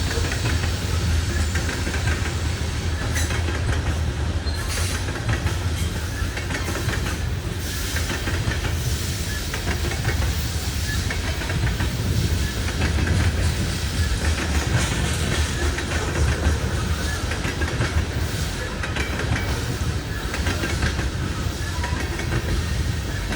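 Loaded coal hopper cars of a freight train rolling past at speed: a steady heavy rumble with the wheels clicking over rail joints.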